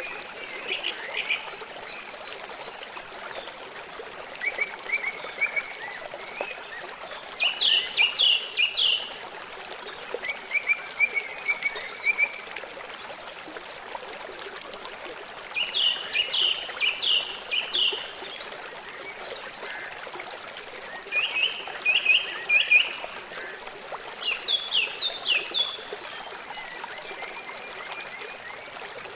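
A stream trickling steadily, with a bird calling in short phrases of four or five quick falling notes every few seconds, the loudest ones about a quarter of the way in, around the middle and near the end. Softer, lower trills come in between.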